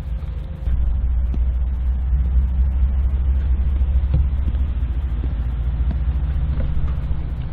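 Diesel freight locomotives idling, a steady low engine rumble that gets louder under a second in.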